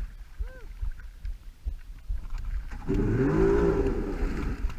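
A watercraft engine revving up and easing off again from about three seconds in, over a steady low rumble of wind and water.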